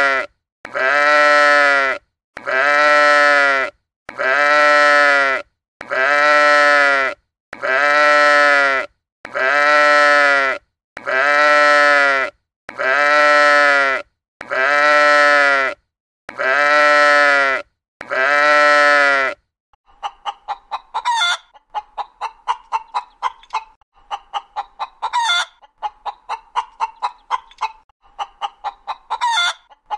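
A sheep bleating over and over, the same bleat repeated about every second and a quarter. About twenty seconds in it gives way to chickens clucking in quick runs, with a few louder calls.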